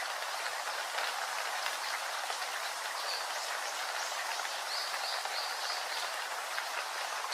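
Steady rain falling, an even hiss of many drops. A few short high chirps come through about halfway in.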